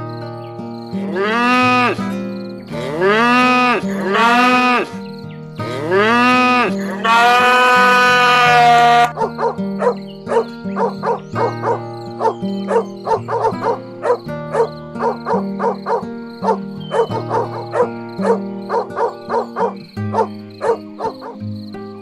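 An animal's calls, several in a row, each rising and then falling in pitch, the last held about two seconds, over background music. After about nine seconds only the music is left, with quick plucked notes.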